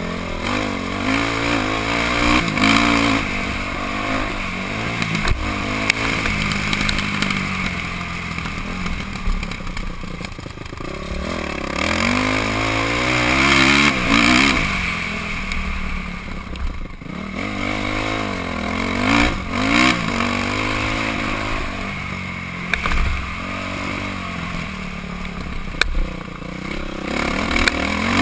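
Honda CRF450R's 450 cc single-cylinder four-stroke engine revving up and dropping back again and again as it is ridden around a motocross track, with hard climbs in pitch under acceleration.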